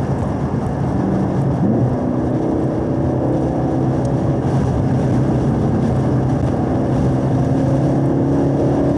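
2017 Camaro SS 1LE's 6.2-litre V8 pulling under load, heard from inside the cabin. There is a brief rise in pitch about two seconds in, during the downshift from fourth to third gear, and then the revs climb slowly.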